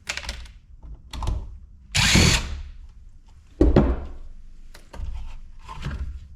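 Cordless drill run in several short bursts, the longest about half a second, two seconds in; its battery is cold and nearly flat, so it hesitates.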